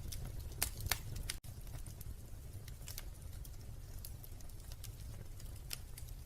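Wood fire crackling in a fireplace: irregular sharp pops and snaps over a low steady rumble, with a brief dropout about a second and a half in.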